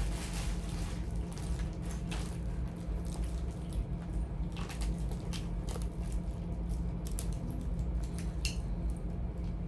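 Charging cords and plugs being handled and sorted: scattered light clicks and rustles, a few sharper ones near the middle and about a second before the end, over a steady low hum.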